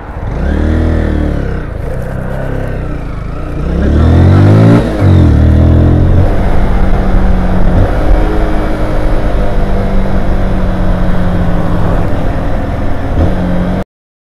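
Honda motorcycle engine heard from on board: the revs climb and drop twice as it pulls away through the gears, then hold steady at cruising speed. The sound cuts off suddenly near the end.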